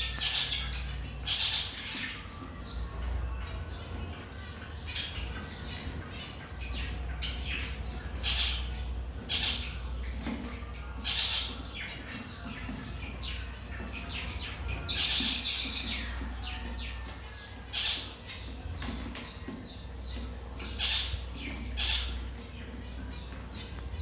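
Aviary birds chirping and squawking in many short calls, scattered and overlapping, over a steady low hum.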